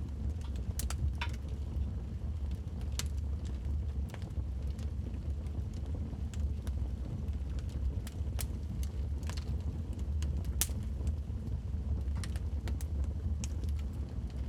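Wood fire burning in a fireplace: a steady low rumble of the flames with irregular sharp crackles and pops from the logs, a dozen or so scattered through.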